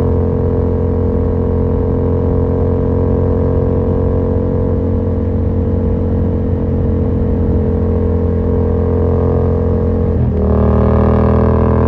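Yamaha MT-07's 689 cc parallel-twin engine through a Yoshimura R77 exhaust with the dB killer removed, running at a nearly steady engine speed while riding. Near the end the note dips sharply for a moment, then comes back a little louder.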